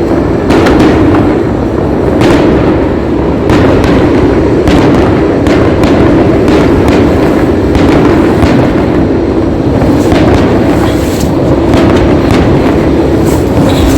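Fireworks display: loud bangs from aerial shells going off in quick, irregular succession, close enough together to merge into a continuous rumble.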